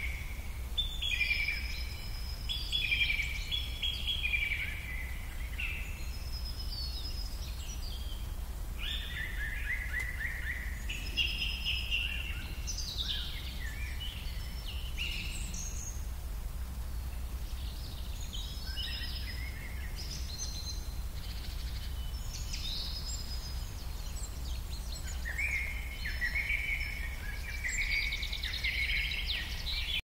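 Several birds calling and singing in short chirping phrases, with a steady low rumble underneath.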